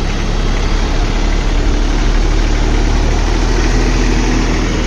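Captain 8G 283 mini tractor's three-cylinder 27 hp diesel engine running steadily.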